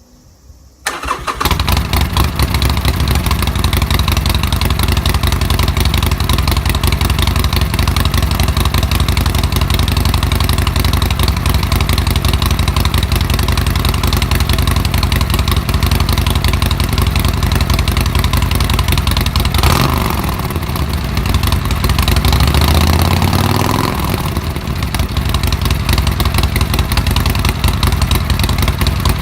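Harley-Davidson Sportster Nightster XL1200N's air-cooled 1200 cc V-twin, breathing through punch-out baloney-cut mufflers, starts about a second in and idles with an uneven, loping exhaust beat. Around two-thirds of the way through it is revved up and back down a few times, then it settles back to idle.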